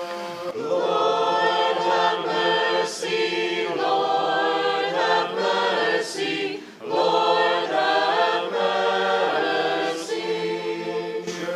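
Church choir singing a litany response a cappella in several voice parts for the Ekteny of a Ukrainian Catholic service, in two sung phrases with a short break a little past halfway.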